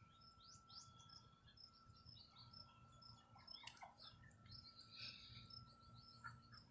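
Faint, scattered bird chirps throughout, short high notes repeating irregularly, over a faint steady high-pitched tone.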